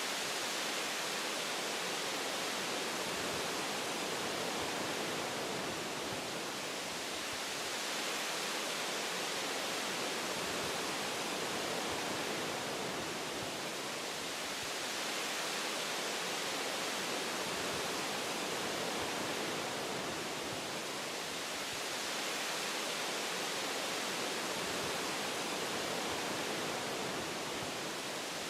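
Wind rushing through forest tree branches: a steady hiss that swells and eases gently every several seconds.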